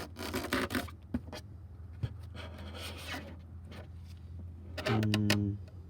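Scraping and rubbing of hand work on the engine's cylinder head area, once at the start and again about halfway through, over a steady low hum.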